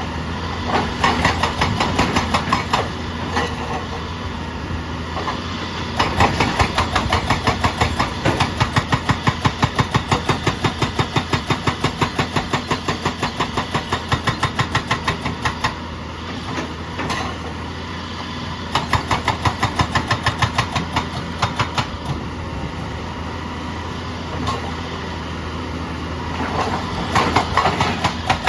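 Excavator-mounted hydraulic breaker hammering in runs of rapid, evenly spaced blows, about five a second, over the excavator's diesel engine running steadily; the hammering stops and restarts several times.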